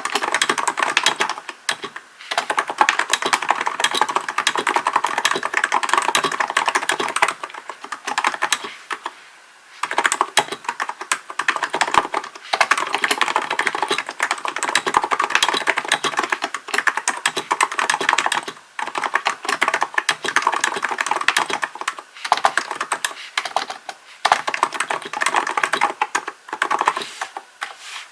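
Hansung GK898B capacitive (non-contact) keyboard being typed on in fast, continuous runs of keystrokes. The runs break off in short pauses, with a longer lull about eight to ten seconds in.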